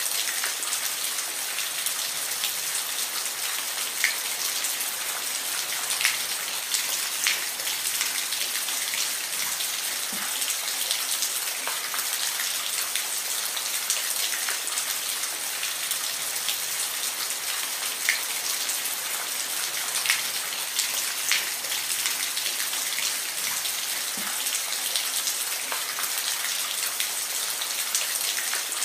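Steady rain: a constant hiss with close, distinct drops landing every second or so.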